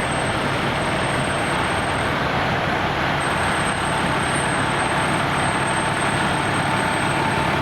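A fire truck's engine running steadily with a low hum under an even rushing noise.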